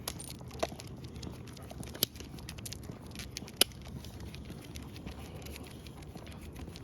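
Footsteps on an outdoor path: a steady run of small irregular scuffs and ticks with three sharper clicks, one about half a second in, one about two seconds in and one near the middle.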